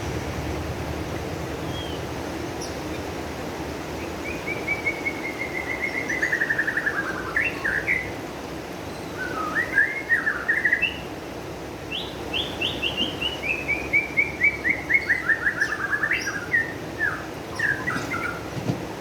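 A songbird singing, with two long phrases of notes that fall in pitch and speed up, and short chirping phrases between them. Under the song there is a steady rushing noise like running pond water.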